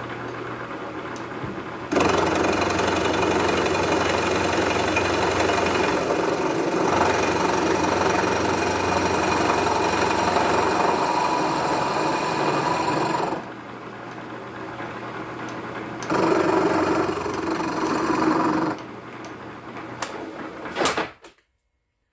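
Milling machine cutting across the welded repair patch on a Hercules engine manifold: the motor hums, then a loud steady cutting noise comes in about two seconds in, eases off around the middle, returns briefly, and the machine stops near the end with a couple of clicks. The weld in the patch is very hard, so the cutter is struggling through it.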